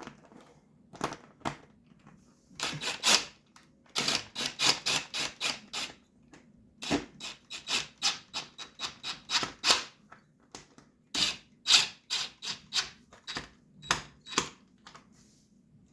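Ratchet wrench clicking in quick runs as the radiator bolts are run in, with short pauses between runs.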